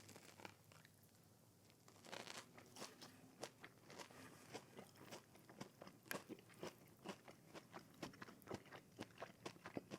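Close-miked biting and chewing of a breaded fried mozzarella stick, its crispy coating crunching. Quiet for the first couple of seconds, then a steady run of sharp crunches with each chew.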